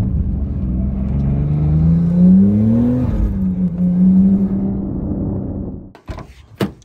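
Nissan Skyline R34 GT-T's turbocharged straight-six engine pulling away: the revs climb for about three seconds, dip, then hold steady and fade out. Near the end come two sharp clicks as the car's exterior door handle is pulled.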